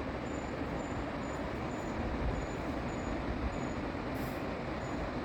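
A moving car's steady road and engine noise, a low rumble with hiss.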